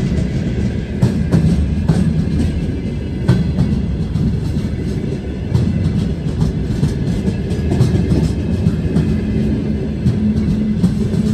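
Freight wagons, gondola cars and then tank cars, rolling slowly past at close range: a steady low rumble of steel wheels on rail, broken by irregular sharp clacks as the wheels cross rail joints.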